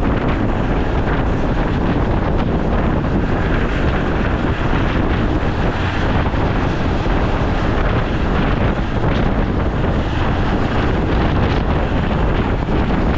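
Steady rush of wind buffeting the microphone held out of a moving train's window, over the low running rumble of the train.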